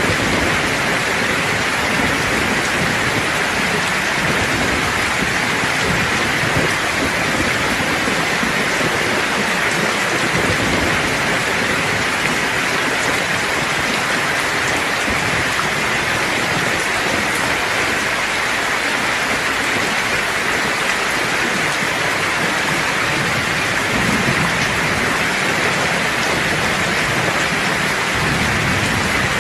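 Steady rain falling hard on a surface, an even hiss, with low thunder rumbling underneath.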